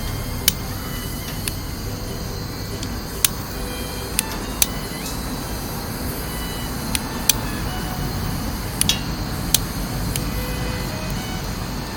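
Wood fire of twigs and pine cones burning in a small round wood stove, crackling with about ten sharp, irregular pops over a steady low rumble.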